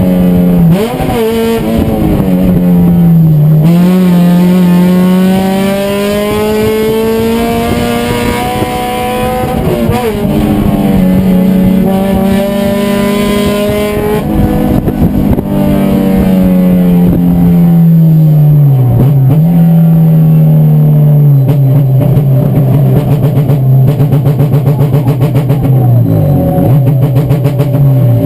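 Race car engine running hard, its pitch climbing and falling over and over as it accelerates and slows, with several sharp drops in pitch.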